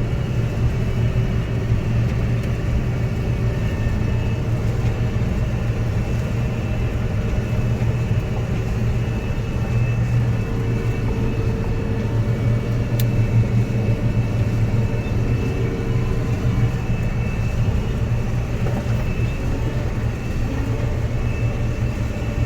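Combine harvester running steadily at working speed, a heavy engine's even low hum with no change in pitch.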